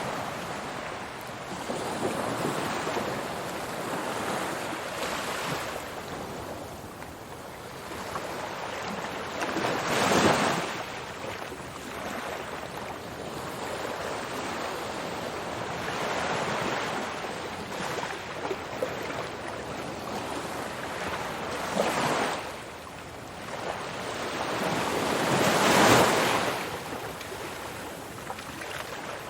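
Ocean waves breaking on a shore: a continuous wash of surf that swells and ebbs, with louder breakers about ten seconds in, twenty-two seconds in and twenty-six seconds in.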